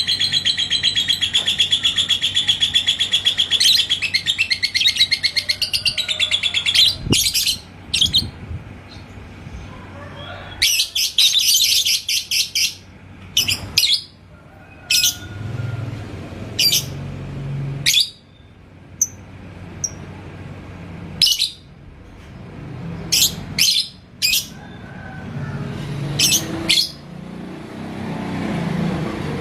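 Lovebird singing the long 'ngekek' trill, a rapid, continuous rattling chatter that stops about seven seconds in. Short separate high chirps follow, scattered through the rest.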